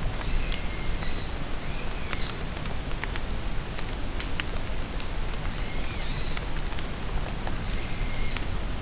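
Steady rain falling in a forest, with scattered drips, and a songbird repeating a short high call four times, each a couple of notes with a lower echo of the phrase.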